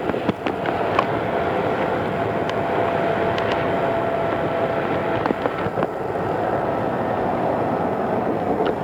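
Odakyu 2600-series electric train running, heard from on board: a steady rumble of wheels on rail with a faint steady hum and scattered sharp clicks. The recording is from cassette tape.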